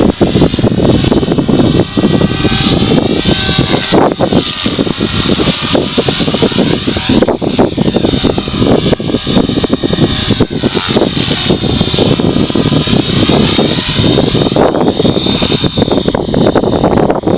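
450-size radio-controlled helicopter flying, its rotor and motor whine gliding up and down in pitch again and again as it moves and fights the gusts, over heavy wind buffeting on the microphone.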